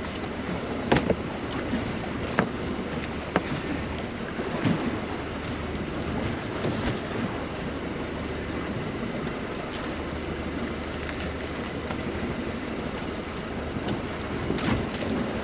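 Wind buffeting the microphone over water sloshing around a small boat at sea, with a few sharp knocks in the first five seconds and another near the end.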